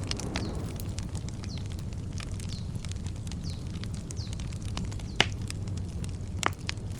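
Campfire crackling with many small snaps and two loud pops near the end, over a steady low rumble. A bird repeats a short, high, falling chirp about once a second.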